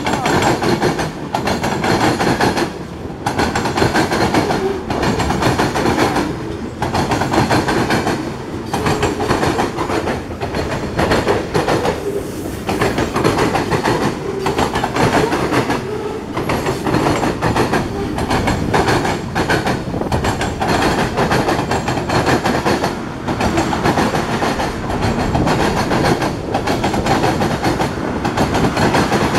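Freight cars of a Norfolk Southern mixed freight train rolling past: a steady rumble and clatter of steel wheels on the rails, with clickety-clack over the rail joints. The noise dips briefly every second or two.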